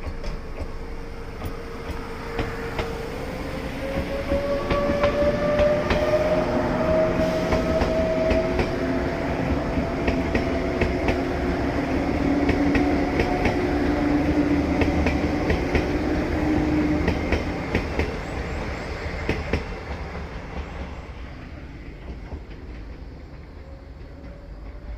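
Izukyu 2100 series Resort 21 electric train pulling away from a station: the motor whine rises slowly in pitch as it accelerates, with wheels clicking over rail joints. It is loudest in the middle and fades as the train moves off.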